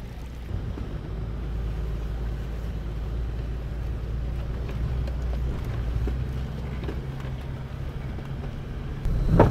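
A Toyota's engine running at low revs, heard from inside the cab as a steady low rumble. It gets louder just before the end.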